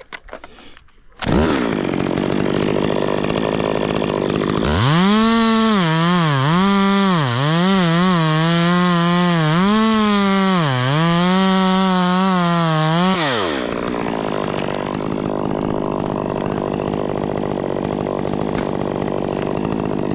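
Stihl 201 two-stroke chainsaw cutting a dead pine trunk into firewood rounds. The saw is held at high revs and its pitch sags and recovers repeatedly as the chain loads up in the wood. A little after halfway it drops to a lower, steadier running sound.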